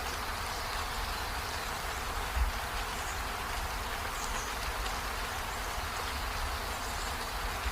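Steady rain falling, an even hiss with a low rumble underneath and a single soft low thump about two and a half seconds in.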